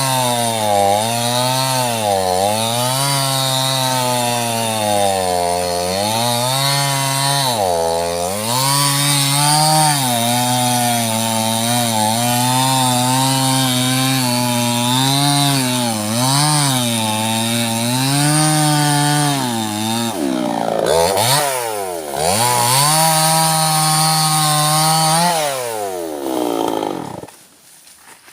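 Small chainsaw cutting sengon wood, its engine speed rising and falling again and again as it bogs under load and revs free. Near the end the engine drops away and the sound falls off sharply.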